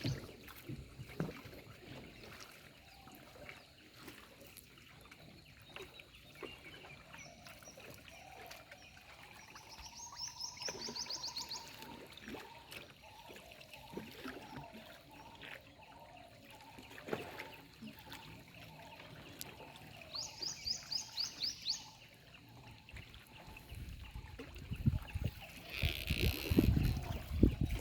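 Outdoor ambience with a songbird giving fast trills of high, rapidly repeated notes twice, about ten seconds in and again about twenty seconds in, over a faint background hiss. Louder low rumbling noise builds near the end.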